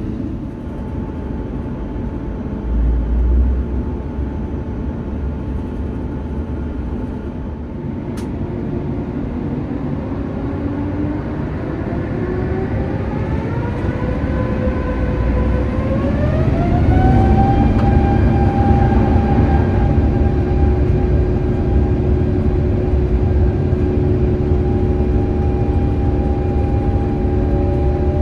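Rolls-Royce Trent XWB engines of an Airbus A350-900 spooling up to takeoff thrust, heard from inside the cabin. A whine climbs in pitch for several seconds, then holds steady over a growing low rumble as the takeoff roll begins. A low bump sounds about three seconds in.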